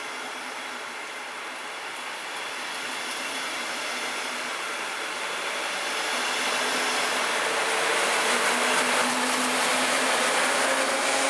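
A double-deck regional train rolls past, led by a DB class 143 electric locomotive: a steady rumble of wheels on rail. Near the end it grows louder, with a low electric hum as the locomotive draws level.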